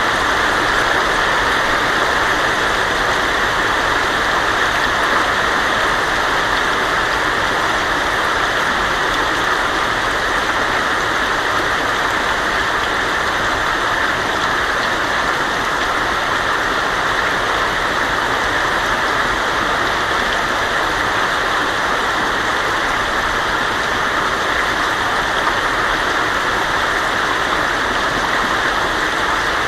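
Heavy rain falling steadily on a tin roof, a dense even hiss of drops with no break.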